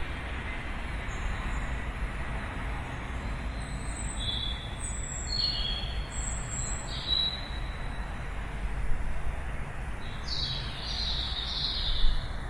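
Songbirds chirping in short, high calls, a few at a time, with a denser run of chirps near the end, over a steady background rumble of distant city noise.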